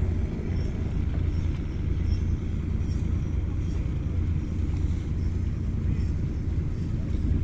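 A fishing boat's engine running steadily, a low, even drone.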